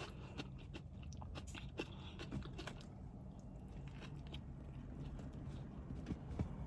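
A person chewing food close to the microphone: soft, irregular wet clicks and mouth sounds, with a faint steady low hum underneath.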